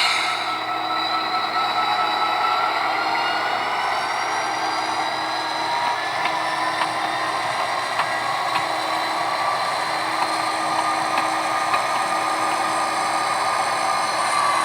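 HO scale model diesel locomotive running along the layout track with a steady whine from its small motor and gear drive. A few faint clicks come through, typical of wheels passing rail joints and turnouts.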